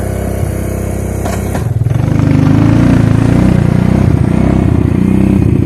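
Suzuki King Quad ATV engine running, then throttled up about two seconds in and held at higher revs, louder to the end.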